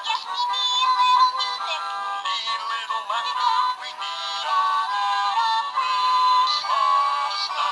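Animated plush toy's small built-in speaker playing a song with a sung, electronic-sounding melody, thin and tinny with no bass.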